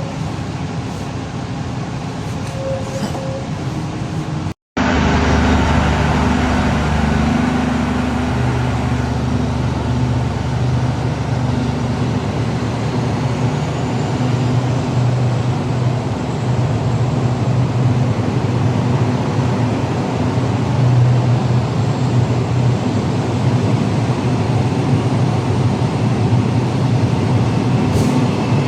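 Passenger train running steadily: a continuous rumble with a steady low hum. A brief dropout about four and a half seconds in, after which the running noise is louder.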